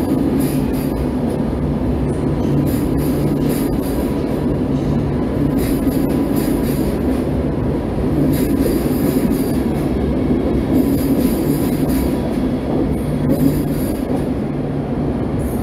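Alstom ED250 Pendolino electric train pulling out and running past at close range: a loud, steady rumble of wheels on rail under a low hum, with intermittent high wheel squeals and clicks, in the enclosed underground station.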